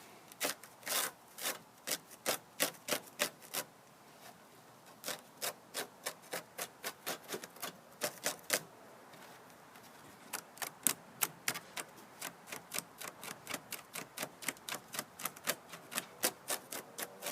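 Razor blade cutting and scraping at Spanish moss and rag fabric wound tightly around a walk-behind mower's drive axle: quick repeated strokes, about three to four a second, in runs with two short pauses.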